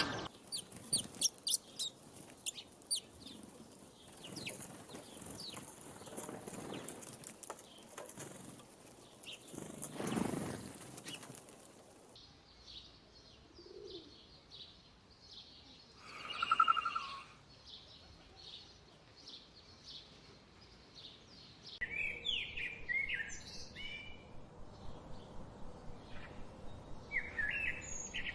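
Wild birds calling, with sudden changes between separate recordings. There are quick repeated chirps in the first few seconds, a brief rush of noise about ten seconds in, one loud call lasting about a second some two-thirds of the way through, and a run of short chirps over the last few seconds.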